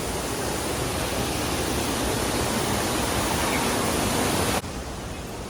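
Steady rushing noise, like water or wind, that cuts off abruptly about four and a half seconds in.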